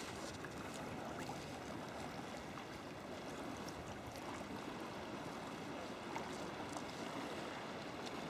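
Water sloshing and trickling steadily around a sea kayak's hull as it moves.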